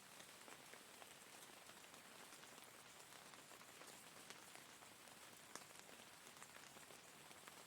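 Steady soft rain: a constant even hiss with many separate drop ticks pattering on a surface throughout.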